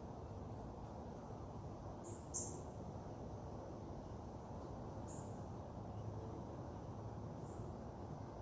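Outdoor ambience: a steady low background rumble with a few short, high bird chirps, a quick pair about two seconds in and single fainter ones later.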